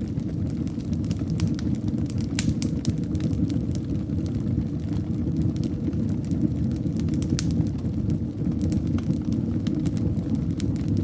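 Fire burning in a fireplace: a steady low rush of flames with frequent sharp crackles and pops scattered throughout.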